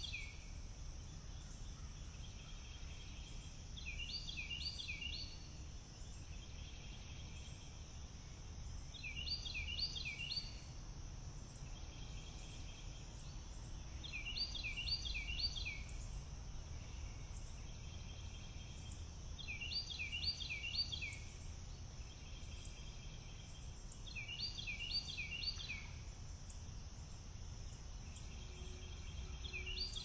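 A songbird repeating a short phrase of four or five quick down-slurred whistled notes about every five seconds, over a steady high insect drone and a low rumble of wind.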